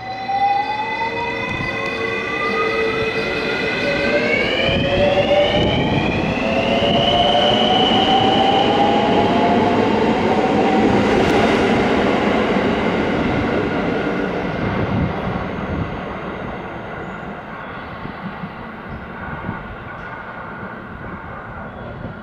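Electric train pulling out of the station, its traction motors whining in several tones that rise in pitch as it accelerates. The running noise swells as the train goes by and then fades away.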